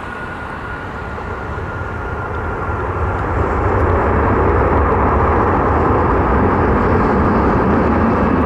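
Jet airliner engines, a steady rushing roar that swells about three seconds in and then holds, as a plane passes close by. A faint high whine sinks slightly in pitch over the first two seconds.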